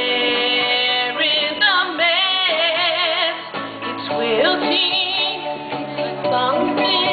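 A woman singing a slow pop ballad over a band accompaniment, with long held notes that waver in vibrato.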